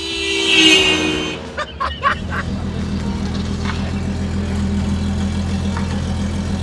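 Toyota Cressida MX73 engine idling, a steady low hum from about two seconds in. Before it, a brief louder swell and a few short knocks.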